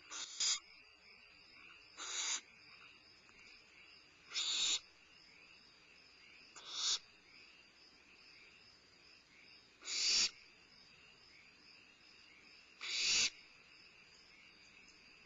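Young barn owls in the nest box giving rasping hisses, six short breathy bursts a few seconds apart, the begging "snore" of barn owl nestlings. Crickets chirr faintly and steadily behind them.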